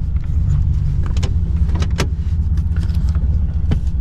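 Pickup truck's engine running with a steady low rumble, with a few sharp clicks over it.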